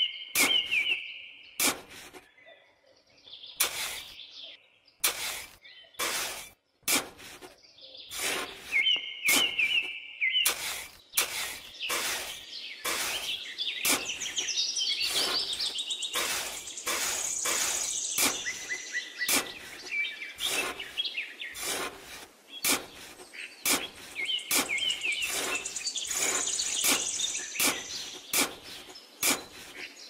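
Birds chirping in short repeated phrases, over many sharp clicks and taps that come irregularly.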